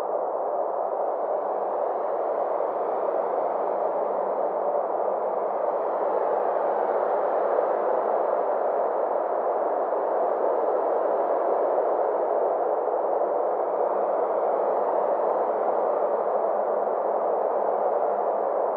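Synthesized space-ambience drone: a steady band of filtered noise centred in the mid range over a faint low hum, its brightness slowly swelling and ebbing.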